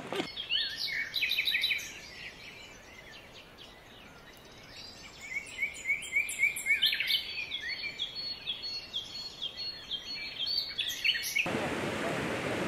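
Birds chirping: a cluster of chirps, a short lull, then a long run of quick, falling chirp notes repeated several times a second. Near the end this cuts off abruptly into a steady rushing noise.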